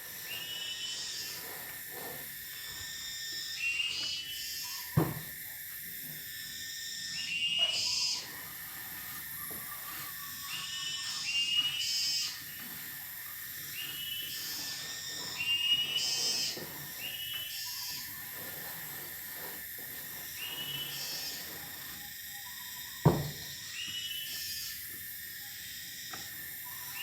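Cicadas calling: a steady high drone with a repeated pulsing call about every two seconds. Two sharp knocks break in, about five seconds in and again near the end.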